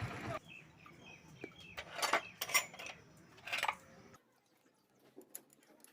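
Metal tools clinking and clattering in a few short bursts, the sound of work starting on the motorcycle engine's head.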